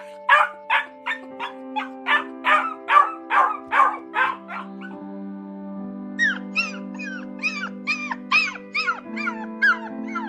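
A dog crying and whining in a quick run of short yelping cries, about three a second, for the first five seconds. After a short pause comes a second run of higher whines that rise and fall in pitch. Background music plays underneath.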